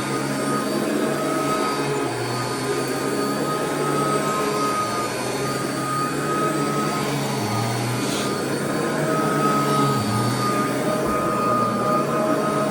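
Royal vacuum cleaner running over carpet, picking up debris: a steady motor whine with rushing air. Its low hum dips briefly a few times, and there is a short crackle about eight seconds in.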